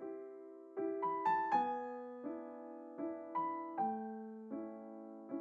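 Gentle background piano music: soft single notes and chords struck one after another, each ringing out and fading.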